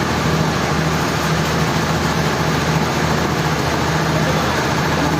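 Sawmill machinery running steadily, a constant low hum under an even noise that does not change.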